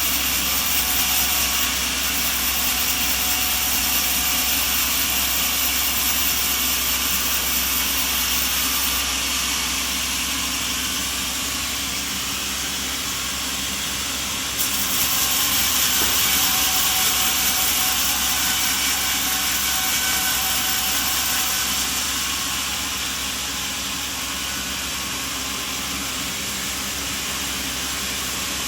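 Sawmill machinery running steadily: a constant loud hiss over a low hum, which changes abruptly about nine and fifteen seconds in.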